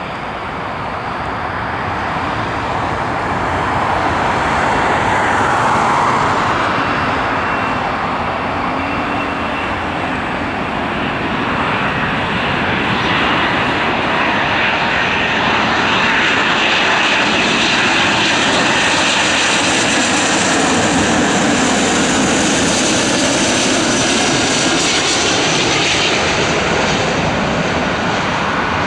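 Boeing 777-200's twin Rolls-Royce Trent 800 turbofans running on a landing approach. The roar builds over the first few seconds, dips slightly, then swells again with a high whine as the jet passes close.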